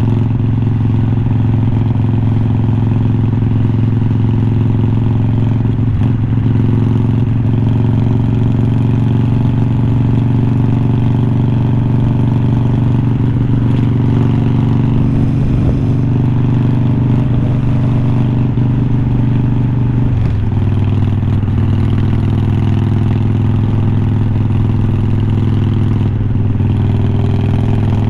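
Harley-Davidson Iron 1200's air-cooled V-twin running through unbranded glass-pack-style slip-on mufflers, held at a steady riding speed; the engine note drops about twenty seconds in.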